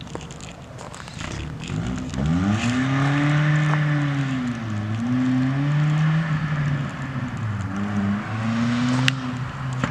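Hyundai Genesis Coupe 2.0T turbo four-cylinder running with its muffler removed, its exhaust note climbing in pitch as the car accelerates and then rising and falling a few times as it drives on the street.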